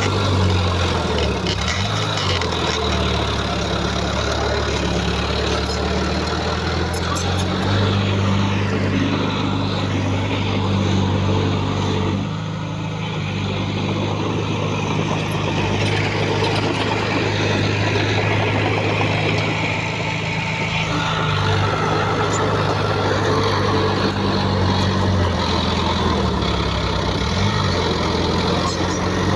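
Heavy diesel engine of earthmoving machinery running, a low steady drone that shifts pitch a few times as the throttle changes.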